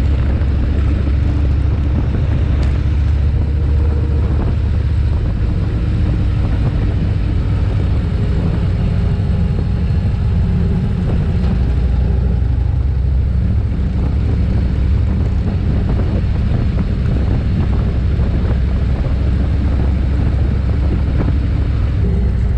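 Harley-Davidson Ultra Limited's V-twin engine droning steadily at cruising speed, with road and wind noise over it.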